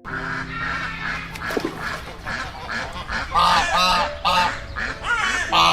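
Waterfowl calling: a fast chatter of short calls, then louder honking calls repeating about every half second from about three seconds in.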